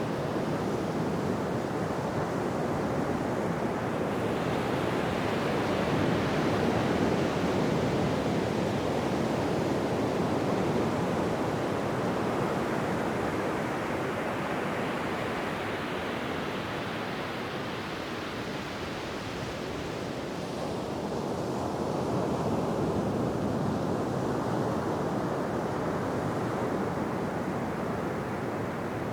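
Ocean surf washing onto a beach: a continuous rushing wash of waves that slowly swells and ebbs, building a few seconds in, easing off past the middle and building again about three-quarters through.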